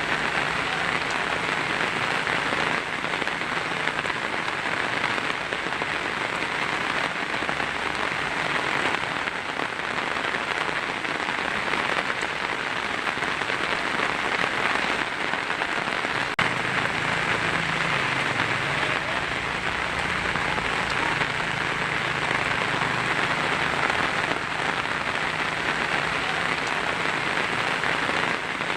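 Heavy rain falling steadily on a tin roof: a dense, even patter with no let-up.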